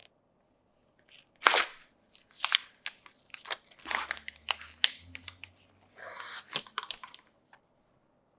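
iPhone 12 Pro box and packaging being handled: a run of crinkles, taps and scrapes starting about a second and a half in, with a longer tearing or sliding sound near the end.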